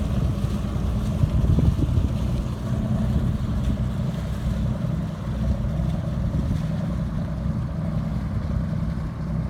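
A boat's engine running steadily under way, a low hum mixed with wind and water noise.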